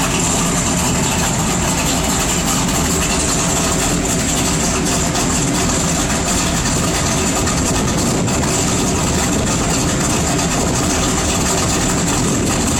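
A 1995 Camaro Z28's 383 stroker V8 idling steadily through a Flowmaster exhaust, just after its first start in six months.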